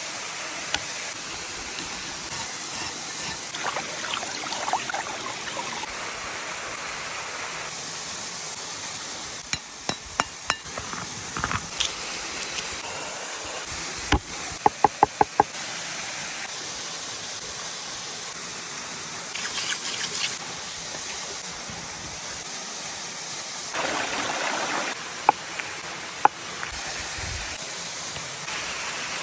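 Outdoor cooking and food-preparation sounds over a steady hiss: scattered knocks and clinks, with a quick run of five knocks about halfway through and louder stretches of hiss later on.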